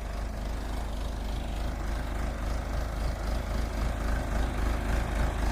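Backhoe's diesel engine running steadily, a low rumble.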